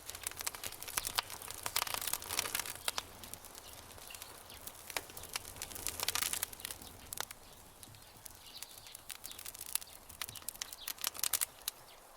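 Campfire crackling: burning wood snapping and popping in irregular bursts of sharp clicks, busiest in a few clusters, over a steady low background hiss.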